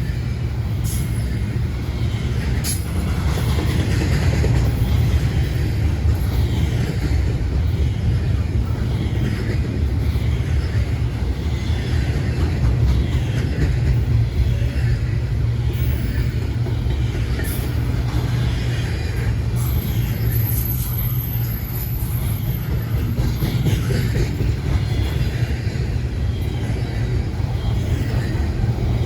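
Freight train rolling past: a steady low rumble of cars on the rails with light clicking of wheels over joints, and a thin high wheel squeal for a couple of seconds about two-thirds of the way through.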